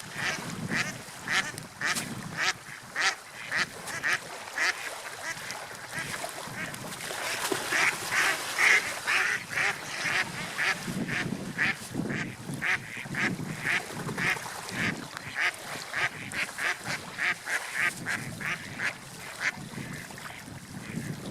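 Seagulls calling: a long run of short, repeated cries, a few a second, with a denser, louder stretch around the middle, over a low, steady wash of background noise.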